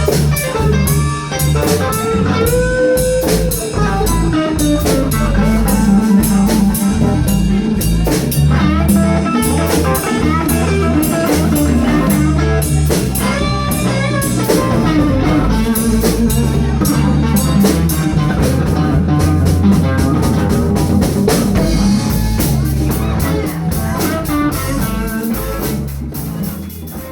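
Blues band playing an instrumental passage: guitar with bent, sliding notes over bass and drum kit. The music starts to fade near the end.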